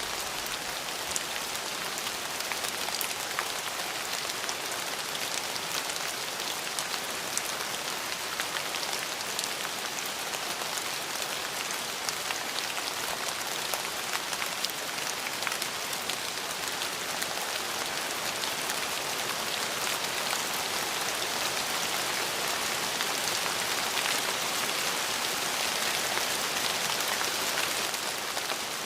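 Steady rain falling on a surface, an even hiss with many small drop ticks, swelling a little louder toward the end.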